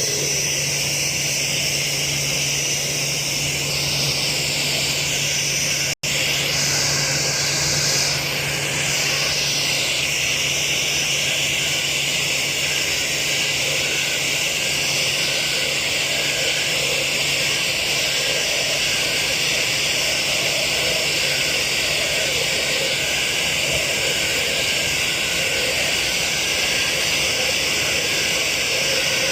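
Jet airliner engines running steadily on the ramp: a loud, even rush with a high whine over it. A lower hum underneath fades out about two-thirds of the way through, and the sound drops out for an instant about six seconds in.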